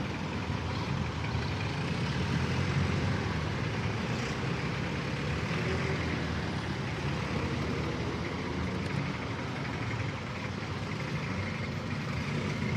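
Street traffic: vehicle engines running and idling, a steady rumble with a continuous noise haze.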